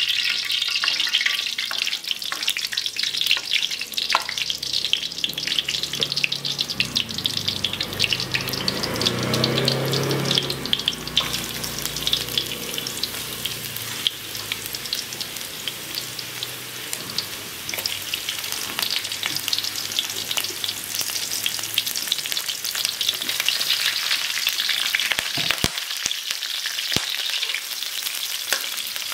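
Garlic and galangal sizzling and crackling in hot oil in a steel wok. The sizzle starts suddenly as they drop into the oil and swells again near the end when lemon leaves go in.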